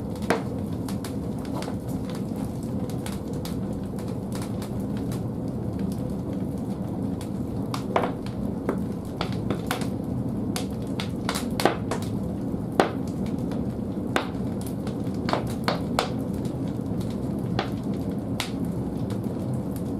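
Large firewood burning in a wood-fired boiler's firebox: a steady low rumble of the fire with scattered sharp crackles and pops, a few of them louder snaps.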